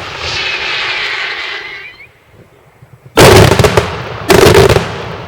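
Daytime fireworks display: a hissing crackle for about two seconds, a short lull, then two very loud volleys of rapid bangs, each lasting under a second.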